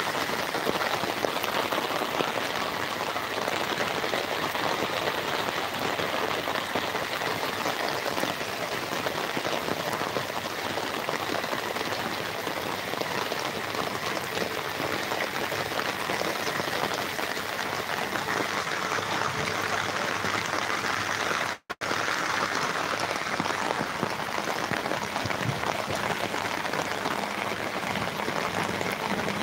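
Steady rain falling on standing floodwater, an even hiss. The sound cuts out for an instant about three-quarters of the way through.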